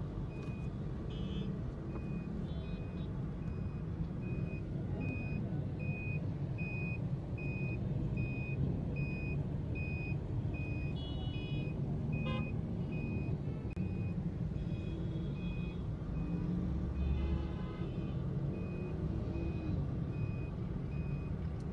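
Electronic vehicle warning beeper, of the reversing-alarm kind, sounding one high beep about every 0.8 seconds, over a steady low rumble. A few short higher chirps sound now and then.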